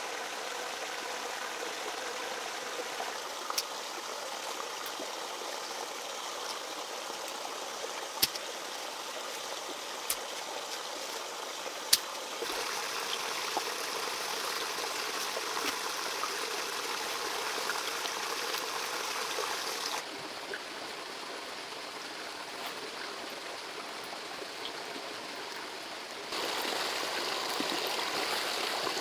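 Steady rush of flowing water, with a few sharp knocks in the first half. The level steps up or down abruptly three times.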